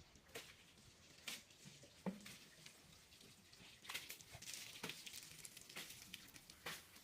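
Near silence: faint room tone with a few scattered small clicks and taps at irregular moments.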